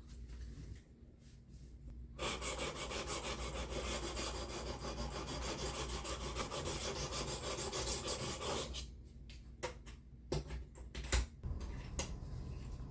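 400-grit abrasive plate of a Work Sharp Professional Precision Adjust guided sharpener scraping back and forth along a knife blade's edge in a rapid run of strokes lasting about six seconds. A few light clicks and knocks follow near the end.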